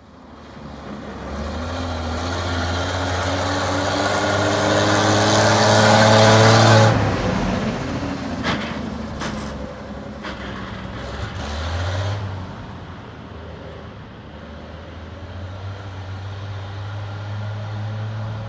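A motor vehicle's engine rising in pitch as it accelerates for about seven seconds, then dropping back sharply and running at a lower, steady pitch, with a brief rise again about twelve seconds in.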